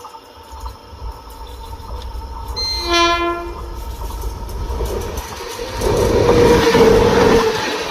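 Train approaching with a low rumble, its horn sounding once briefly about three seconds in, then the train passing loudly with rattling wheels over the last two seconds.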